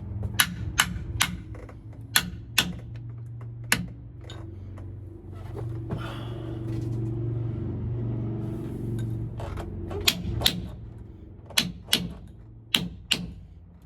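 Hammer strikes driving a new pinion seal into a differential housing: a run of sharp taps in the first few seconds, a pause with only a low steady hum, then another run of taps from about ten seconds on. The later strikes are typical of the seal bottoming out, sounding solid instead of hollow.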